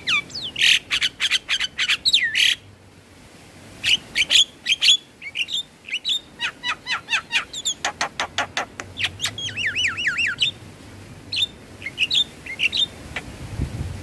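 Javan myna calling: fast runs of harsh chips and clicks mixed with bending, looping whistles, with a brief pause about three seconds in.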